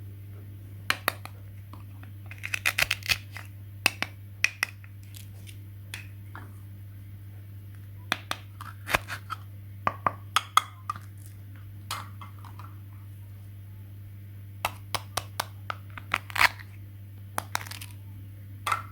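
Irregular sharp clicks and taps, some in quick clusters, over a steady low hum.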